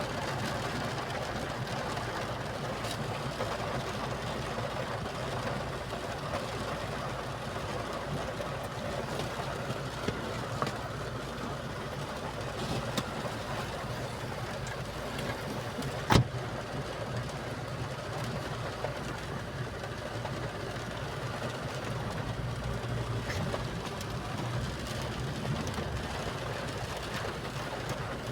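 A vehicle engine runs steadily at low revs, with a single sharp knock a little past halfway.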